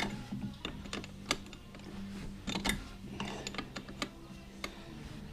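Irregular metallic clicks and taps of a hand wrench being worked on a belt-tension bolt as it is tightened, over a steady low hum.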